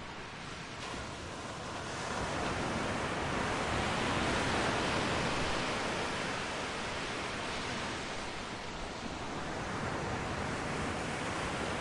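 Steady rushing noise of forest ambience that swells about two seconds in and eases again later. No bird calls or other distinct sounds stand out.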